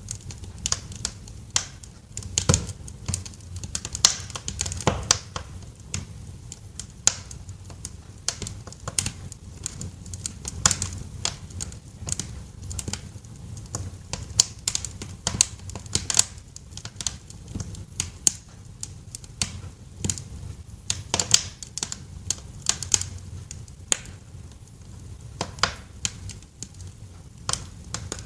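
Wood fire in a fireplace crackling, with sharp irregular pops several times a second over a low steady rumble.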